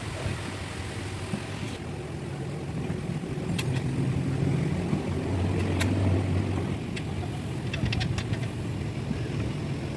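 Low rumble of a running vehicle engine that swells in the middle, with a few short sharp clicks and a quick cluster of them near the end.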